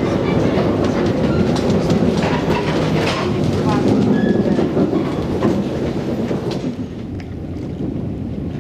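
Hythe Pier Railway's electric narrow-gauge train running slowly along the pier, its wheels clicking over the rail joints with a few brief squeals. About seven seconds in, this gives way to quieter outdoor noise.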